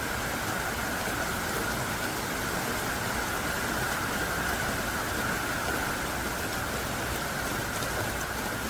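Heavy rain pouring down steadily: a dense, even hiss of rainfall with individual drops ticking through it.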